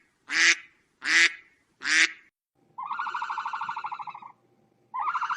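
Duck quacking: three loud single quacks, then a longer run of rapid quacks, with another call starting near the end.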